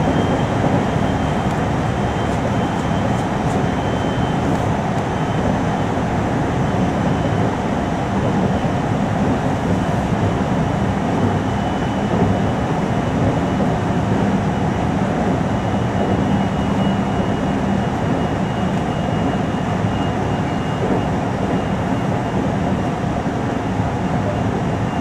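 Steady running noise inside a 521 series electric train's motor car between stations: an even rumble of wheels on rail, with a faint, thin high tone above it.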